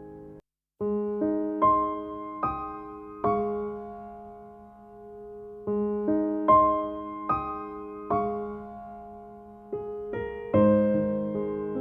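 Slow, calm solo piano music, single notes and chords struck and left to ring and fade. The music cuts out completely for a moment about half a second in, then resumes.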